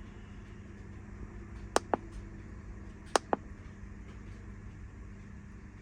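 Ferrari 456 V12 idling steadily while cold, running with a random misfire later logged on cylinders 12 and 7, so at least a couple of cylinders are not firing well. Two pairs of quick clicks come over it, about a second and a half apart.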